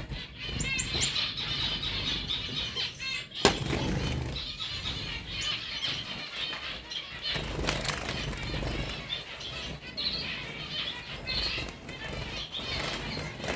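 Small finches chirping and twittering in quick high trills, with wings fluttering. A single sharp click about three and a half seconds in.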